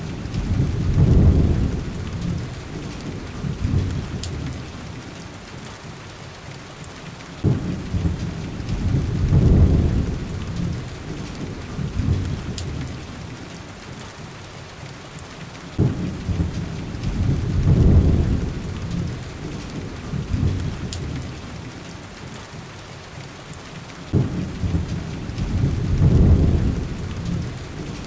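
Steady heavy rain on window glass with deep rumbles of thunder. Each rumble starts abruptly, swells for about two seconds and fades, and they repeat evenly about every eight seconds.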